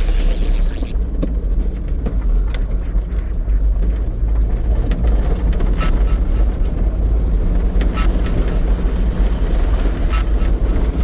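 A 4x4 Mitsubishi L300 van driving over rough ground: a steady low engine and road rumble with occasional knocks and rattles.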